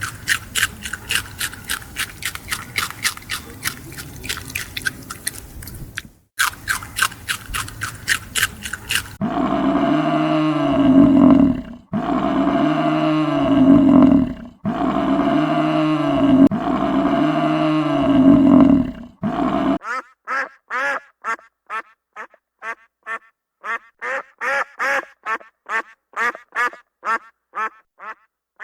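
A sequence of different animal calls: a fast run of short repeated calls, then four loud, long, drawn-out calls one after another, then a steady series of short calls about two a second.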